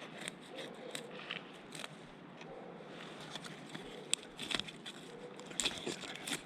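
Dry birch bark and thin twigs being worked by hand into fire tinder: irregular crackles, snaps and scrapes, the sharpest cluster about four seconds in and again near the end.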